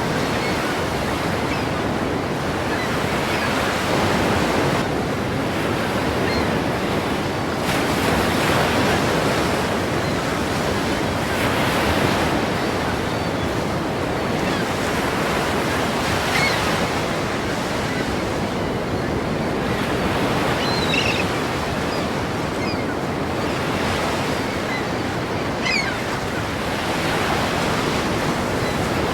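Ocean surf breaking against a pier: a continuous rush of waves that swells and eases every few seconds.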